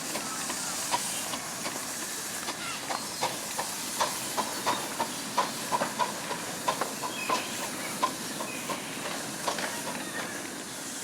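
Miniature steam locomotive hissing steam steadily, with a run of irregular sharp metallic clinks and knocks over it.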